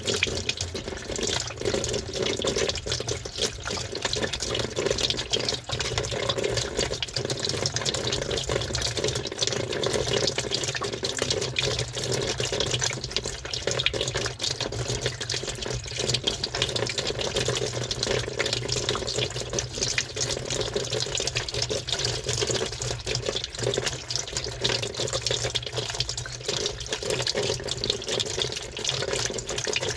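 Water running and sloshing inside a washing machine drum, heard from inside the drum, steady throughout with a constant scatter of small clicks.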